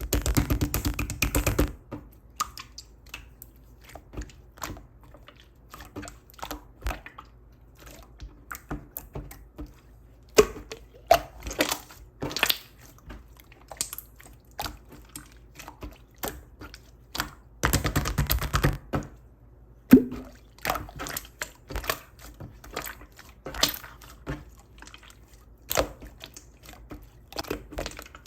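Slime being squeezed, stretched and pressed by hand: wet sticky clicks and air-bubble pops throughout, with two denser crackling stretches, one at the start and one about two-thirds of the way in.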